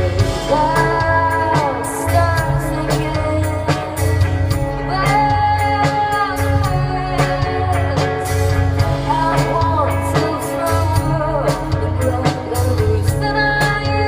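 Live band music: a woman singing a gliding melody over a steady pulsing bass line, with drums and guitar.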